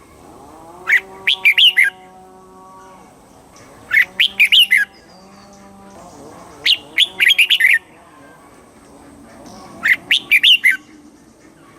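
Red-whiskered bulbul singing: four short, quick warbled phrases, each under a second, repeated about every three seconds.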